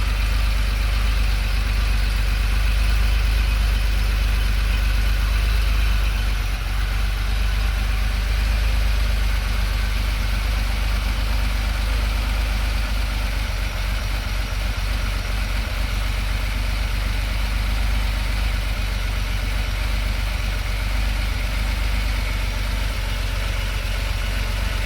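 1993 Porsche 964 Jubilee's air-cooled flat-six idling steadily shortly after a cold start.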